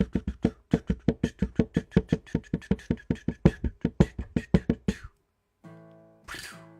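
A fast, even run of loud drum-like hits, about six a second, building suspense as a dramatic sting. The hits stop after about five seconds, and a short held chord with a quick swish follows near the end.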